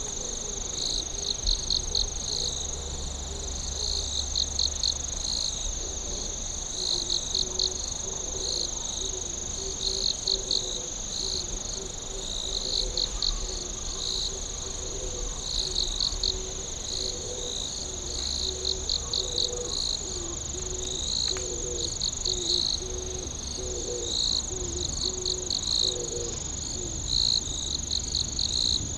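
Night insect chorus: a steady high trill, with crickets chirping over it in repeated short groups of pulses about every second and a half. A fainter, lower pulsing call comes and goes through the middle.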